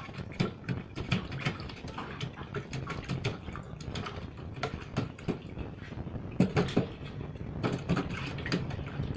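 A spoon stirring STPP powder into water in a small container to dissolve it, with quick, irregular clicks and scrapes against the sides, over a steady low hum.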